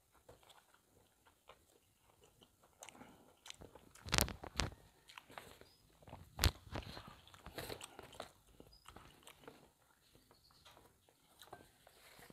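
Close-up chewing and crunching of a mouthful of lotek, a vegetable salad in peanut sauce, with loud crunchy bites about four seconds in and again about six and a half seconds in.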